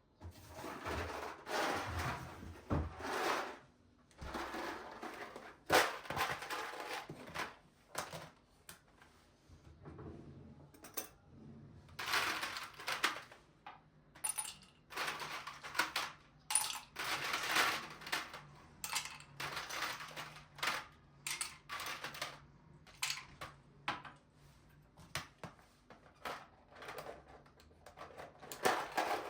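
Dishes and cutlery clinking and clattering in irregular bursts, the sound of kitchen handling.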